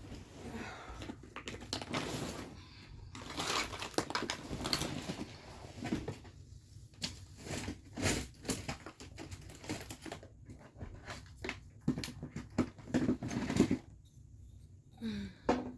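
Crinkling and rustling of bags and papers, with irregular knocks and clatter of small objects being picked up and set down as household clutter is sorted by hand.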